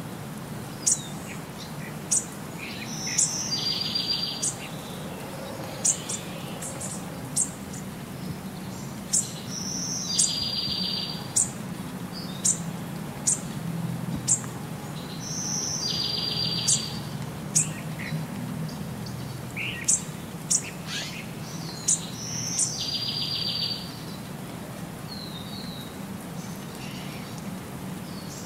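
Birds chirping: short, sharp high chirps about once a second, and a brief trilled phrase that comes back about every six seconds, over a low steady hum.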